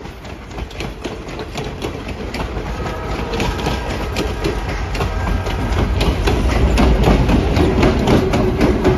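Passenger train rolling past close by, its wheels clicking rapidly over the rails. A rumble builds as the train's EMD GP38 diesel locomotive draws near and goes by, loudest near the end.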